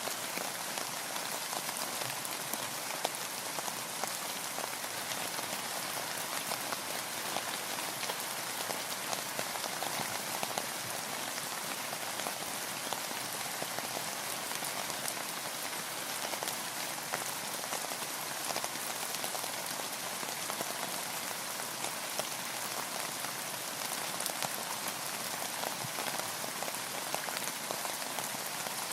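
Steady rain, with many distinct drops pattering on the boat close by.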